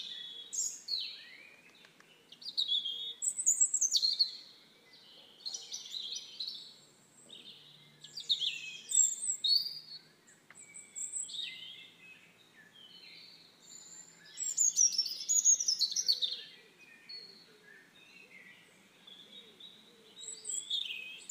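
Songbirds singing: bursts of varied high chirps and quick falling notes, coming in phrases every couple of seconds with short quiet gaps between.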